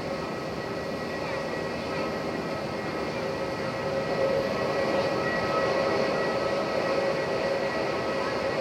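Airbus A330-900neo's Rolls-Royce Trent 7000 turbofans running at takeoff power: a steady jet noise with a held whine at several pitches, getting a little louder about halfway through.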